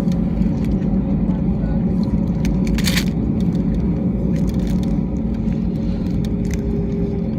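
Airbus A320 cabin noise: the jet engines and airframe give a steady drone, heard from inside the cabin. A few faint clicks sound, and a brief noisy burst comes about three seconds in.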